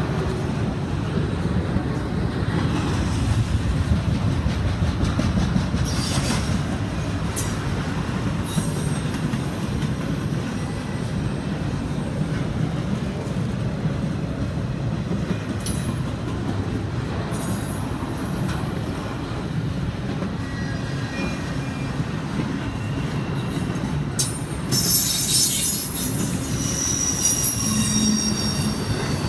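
Norfolk Southern double-stack intermodal container train rolling past close by: a steady rumble of steel wheels on rail, with high-pitched wheel squeal coming in near the end.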